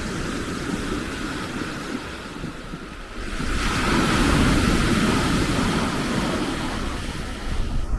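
Storm wind buffeting the microphone over waves washing on the lakeshore, a steady rushing noise that swells louder about three and a half seconds in.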